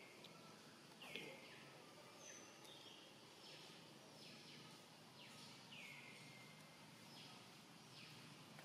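Faint bird calls: short notes that slide down in pitch, repeated about once or twice a second, over a low steady outdoor background.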